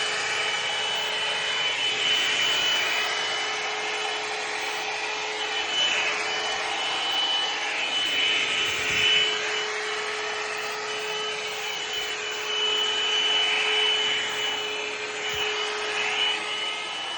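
Hair dryer running, blowing air with a steady high whine over the rush; the sound swells and fades every few seconds as the dryer is moved about.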